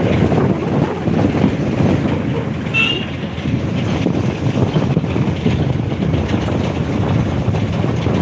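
Steady, loud rumbling travel noise from a moving vehicle, with a brief high squeak about three seconds in.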